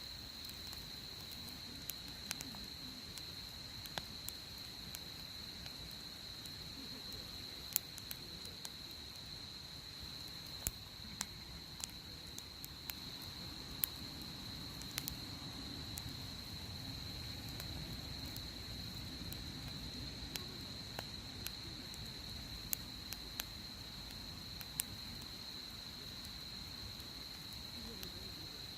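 Wood fire crackling, with sharp pops at irregular moments, under a steady high insect trill. A low, soft rushing of the fire swells through the middle.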